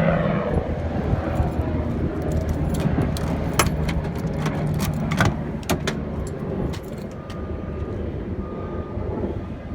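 Hino box truck's diesel engine idling with a steady low hum, and a few sharp clicks and knocks partway through. A faint beeping tone repeats near the end.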